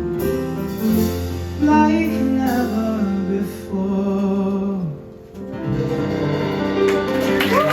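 Final bars of a live ballad: a held singing voice over guitar accompaniment, thinning out about five seconds in before a last phrase. Audience cheering and clapping begins near the end.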